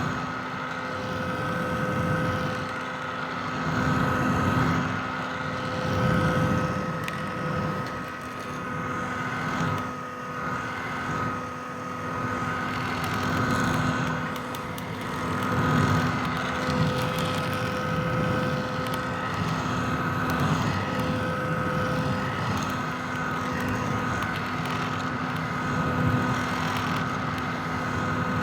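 Vintage hair dryer running continuously: a steady rush of blown air over a motor hum and a high whine, its level gently swelling and easing.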